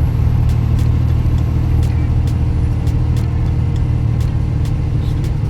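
Steady low drone of a semi-truck's diesel engine and road noise, heard from inside the cab while driving.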